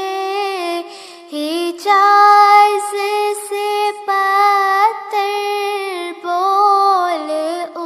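A high, young-sounding voice singing an Islamic devotional nasheed (naat) in long, gliding held notes, without drums or bass, with a short breath pause about a second in.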